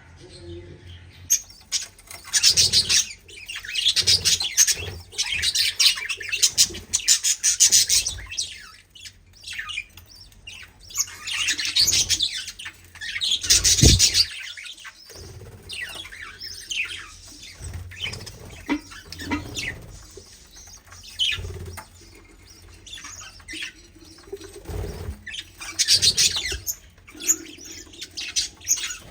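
Small cage birds chirping and chattering in bursts of rapid high calls, with a few short dull thumps among them.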